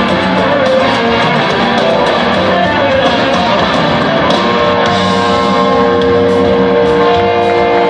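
Live rock band with electric guitar playing loudly; busy, quick-changing guitar lines for the first half, then the band holds one long sustained chord.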